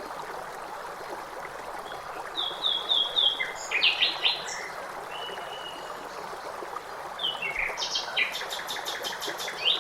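Songbirds singing over the steady rush of a stream. A run of four quick, evenly spaced notes comes a couple of seconds in, and a longer, busier song with rapid repeated high notes comes near the end.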